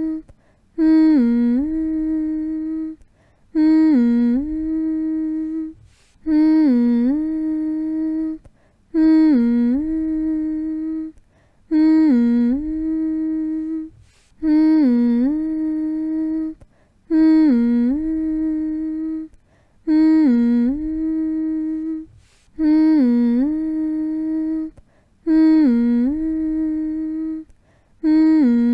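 A person humming one long, level note over and over to soothe a baby to sleep, each hum opening with a quick dip in pitch and held for about two seconds. A short gap separates the hums, which come about once every three seconds.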